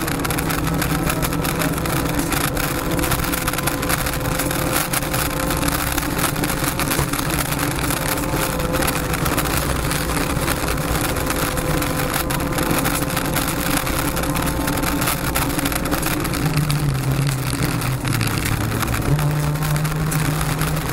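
Honda Civic rally car's 1.6-litre engine running hard at a steady high pitch, heard from inside the cabin over tyre and road noise. About three quarters of the way through, the engine note drops in steps for a couple of seconds, then jumps back up.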